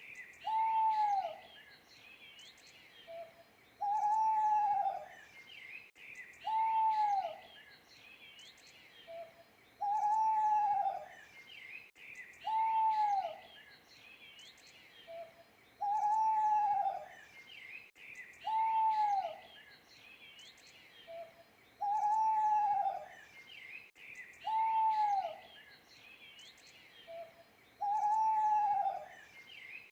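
Owl hooting: drawn-out hoots that fall in pitch at the end, coming in pairs about every six seconds. Small birds chirp and trill steadily behind them.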